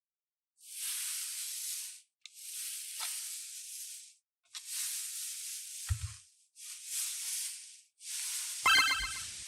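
Five bursts of hissing noise, each a second or so long, separated by short silences. A brief tonal jingle joins near the end.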